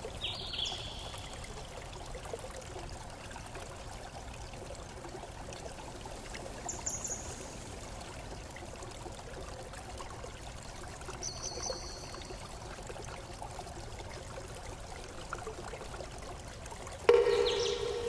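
Flowing water, a stream trickling and splashing steadily. A few brief high-pitched chirps sound over it, and a louder pitched call with many overtones comes near the end.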